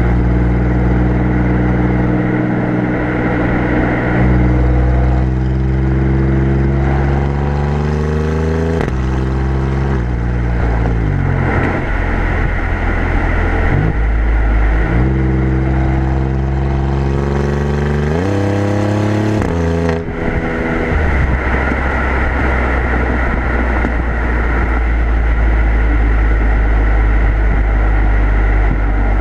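Exhaust of an Alfa Romeo Giulia Quadrifoglio's twin-turbo V6, heard from the rear bumper: the note rises in pitch as the car accelerates and drops sharply at each gear change, several times. In the last part it settles to a steady low drone under road noise as the car cruises.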